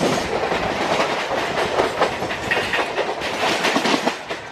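Suburban electric local train (EMU) running, heard from aboard: a steady rush of wheel and track noise with rapid, irregular clicks and clatter of the wheels over rail joints.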